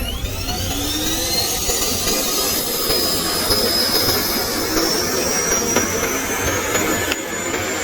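RC model aircraft's electric motor spooling up under throttle for takeoff: a whine that climbs steeply in pitch over the first few seconds and then keeps creeping higher, over a steady rushing noise and low rumble.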